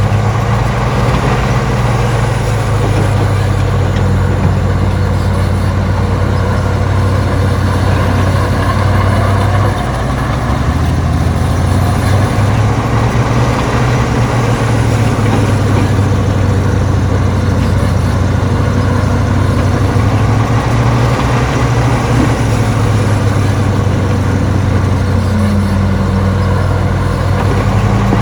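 Heavy diesel engine of earthmoving machinery running steadily, its pitch shifting a little about ten seconds in and again near the end.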